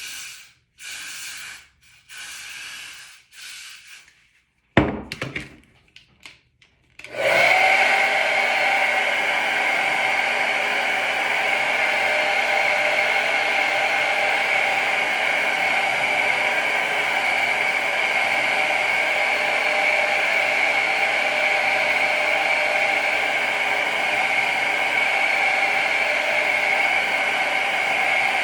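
A handheld hair dryer switches on about seven seconds in and runs steadily with a high whine over its blowing air. Before it, there are a few short bursts of hiss and a sharp click.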